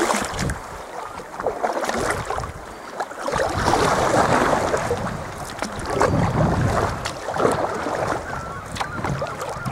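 Water splashing and sloshing around a sea kayak as it is paddled, coming in irregular surges, with wind buffeting the microphone.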